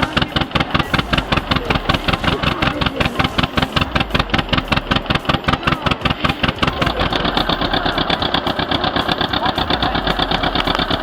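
Tractor engine running under load, a fast, even chug that gets a little stronger about seven seconds in.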